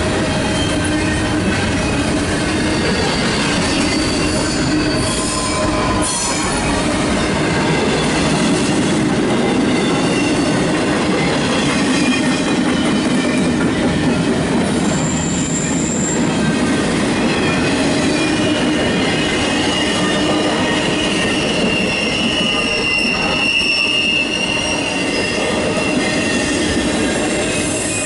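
CSX intermodal freight train's well cars and flatcars rolling past close by: a steady, loud rumble and clatter of steel wheels on rail, with high-pitched wheel squeals rising out of it now and then.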